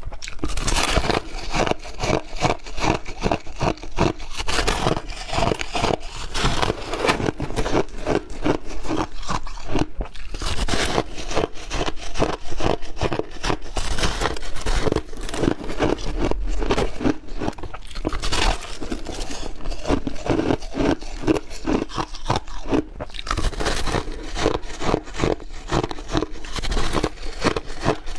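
Chunky ice being bitten and crunched between the teeth in a dense, continuous run of crisp cracks and crunches.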